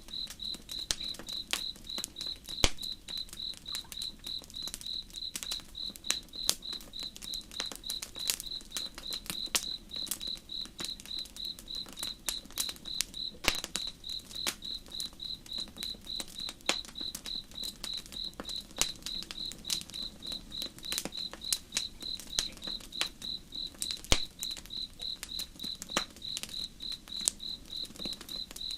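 Crickets chirping in a steady train, about two to three chirps a second, over a campfire crackling with frequent sharp pops, a few of them louder than the rest.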